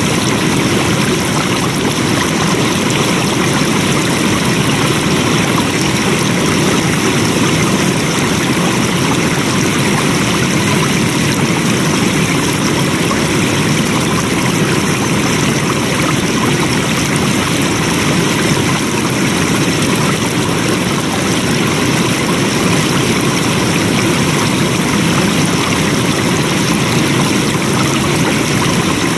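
Flowing water rushing steadily, a constant even wash of noise with no breaks.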